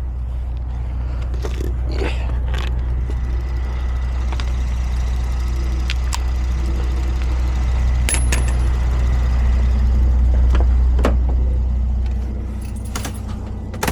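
A vehicle engine running steadily with a low idle rumble, with a few sharp metallic clinks and taps over it.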